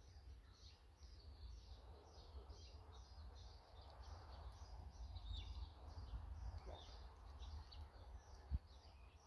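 Faint outdoor ambience: a small bird chirping over and over in short high notes, about three a second, over a low wind rumble. One sharp tap near the end.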